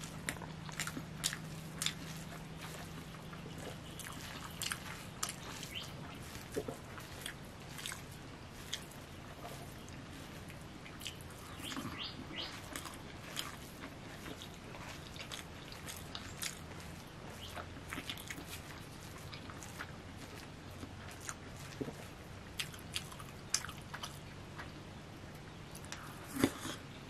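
Close-miked eating sounds of a man eating with his hand: chewing, with irregular wet clicks and smacks of mouth and fingers in the food. The loudest smack comes near the end.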